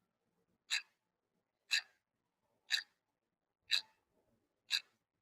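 Clock-tick sound effect, one sharp tick each second, counting down the thinking time before a quiz answer.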